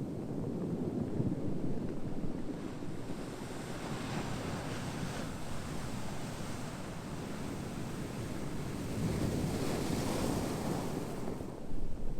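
Ocean surf: waves washing in as a steady rush that swells twice, once early and again near the end.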